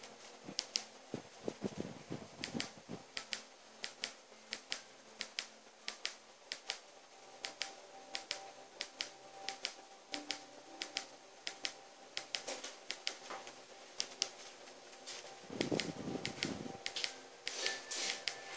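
Wood fire crackling in a fireplace: irregular sharp pops and snaps, several a second, with a brief low rushing swell about sixteen seconds in.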